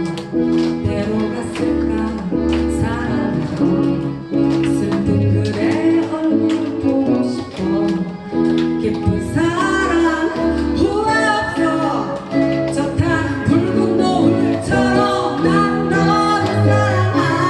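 Live small-ensemble performance of a pop song, with guitar and other instruments playing chords and a voice singing the melody, most clearly in the second half.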